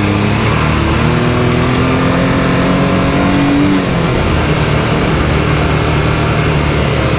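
Can-Am Maverick X3 side-by-side's engine under way on the trail, pulling up in revs for about three seconds. It drops back sharply about four seconds in and then runs steadier at lower revs.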